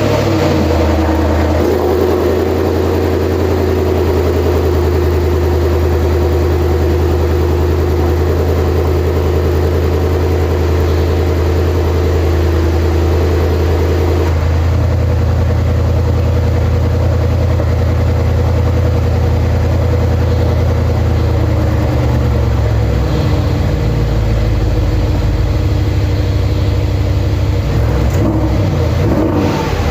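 Mercedes-AMG 63 engine idling just after a cold start, running steadily at raised idle. The engine note shifts about fourteen seconds in and changes again, less evenly, around twenty-three seconds.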